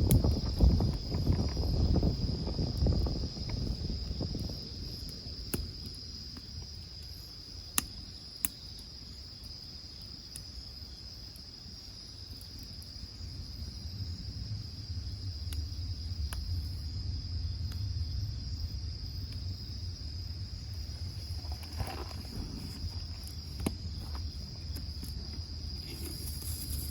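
Crickets chirring steadily in one continuous high band. A low rumble fades out over the first few seconds, and a couple of sharp clicks come about eight seconds in.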